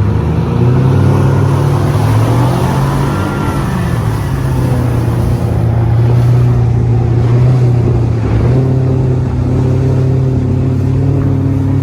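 Small speedboat's engine running at high revs, its pitch shifting up and down in the first few seconds and then holding steady.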